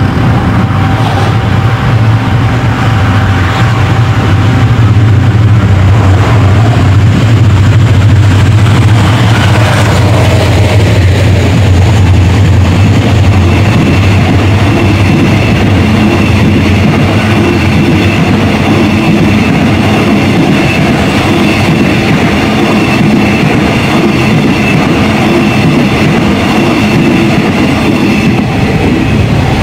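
Diesel-hauled passenger train passing close by: a deep engine drone for the first dozen seconds, then the coaches rolling past with a steady rumble and a thin high whine from the wheels and rails.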